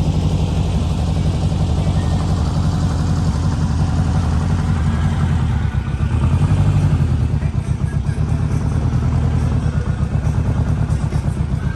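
A vehicle engine running close by, a steady low pulsing throb that dips briefly about halfway through and then swells again.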